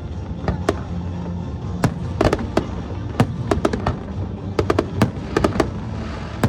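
Fireworks going off: a rapid, irregular string of sharp cracks and bangs, thickest about two seconds in and again about five seconds in.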